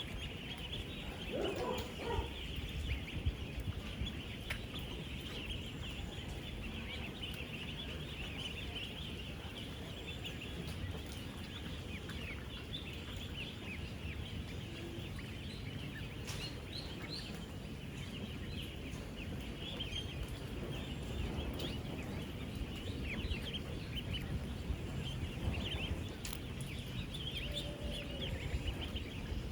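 A dense chorus of thousands of ten-day-old ducklings peeping at once, a continuous mass of high peeps over a low steady rumble.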